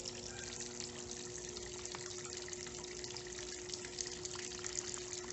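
Electrolux LTE09 top-loading washing machine filling with water: a steady hiss of water pouring into the drum, with a faint steady hum underneath.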